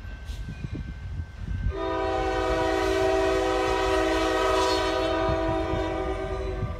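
Freight locomotive's air horn sounding one long, steady blast of several notes together, starting about two seconds in and cutting off just before the end, over the low rumble of the train.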